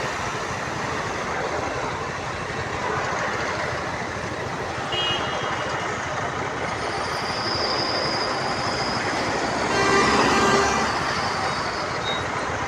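Steady vehicle and traffic noise, with a louder, briefly pitched sound about ten seconds in.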